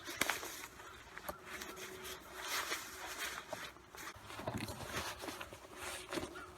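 Faint rustling and soft scuffing, with a few light clicks.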